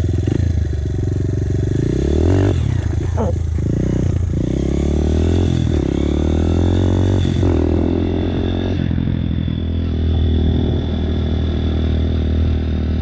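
Dirt bike engine running hard under the rider, revving up and dropping back several times a couple of seconds in and again about halfway, then running more steadily.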